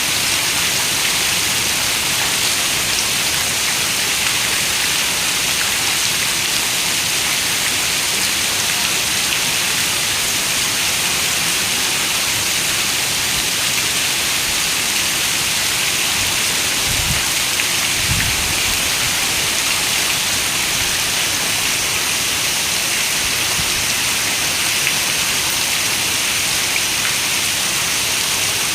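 Steady rain falling, a dense even hiss. A little past the middle come two brief low rumbles.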